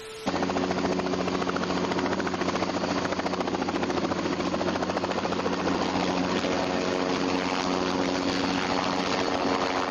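An engine running steadily close by: a loud, even, rapidly pulsing drone with a steady low hum, starting abruptly just after the beginning.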